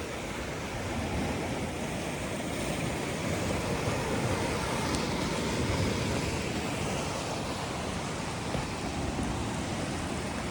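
Sea surf washing against a rocky shore: a steady rushing wash that swells slightly about halfway through.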